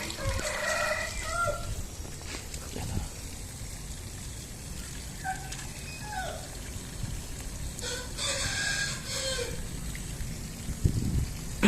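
Chickens clucking, with a longer crowing call about eight seconds in.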